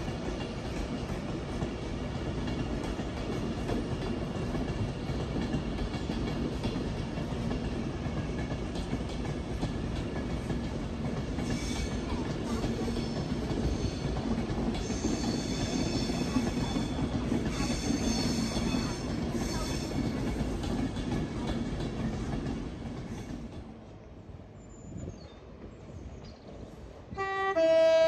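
A train rolling through the station, its wheels squealing high-pitched on the rails for several seconds mid-way before the running noise dies away. Near the end a loud two-tone train horn starts sounding.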